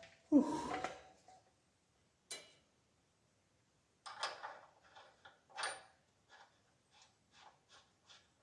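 Metal parts knocking and clinking, with a short ringing note to the louder clanks, then a run of light, evenly spaced taps, about three a second, near the end.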